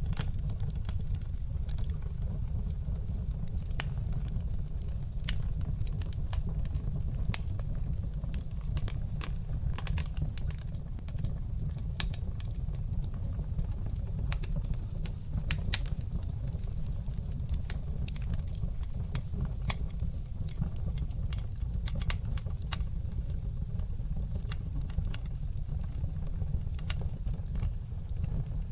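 Wood fire burning in a fireplace, crackling with many small, irregular sharp pops over a steady low rumble.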